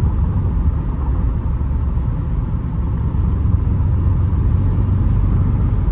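Audi RS7 Performance's twin-turbo V8 and road noise heard from inside the cabin while cruising: a steady low drone.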